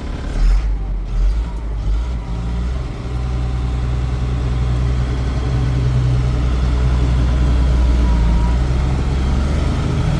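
Caterpillar 3126 inline-six diesel of a GMC 6500 truck pulling away. A few thumps come in the first couple of seconds, then the low engine note builds for several seconds and holds steady under load.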